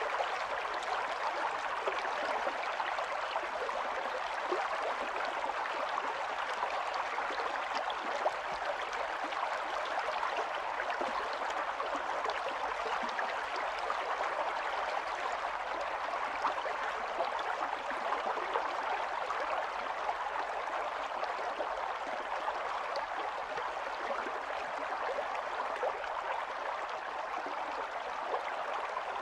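Running stream: water flowing and babbling over stones in a steady, even rush with fine splashing detail.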